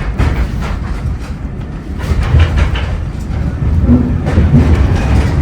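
Severn Valley Railway heritage steam train running along the track, a heavy steady rumble with scattered clicks of the wheels over the rails.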